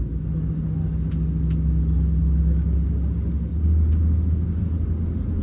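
Low, steady drone of an Airbus A321 heard from inside the cabin during pushback, with a low hum that grows louder about three and a half seconds in.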